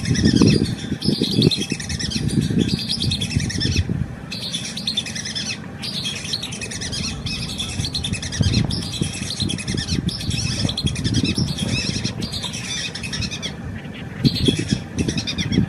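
A chorus of many birds chirping and twittering at once, quick short notes overlapping with a few brief pauses, over an uneven low rumble that swells briefly near the start and near the end.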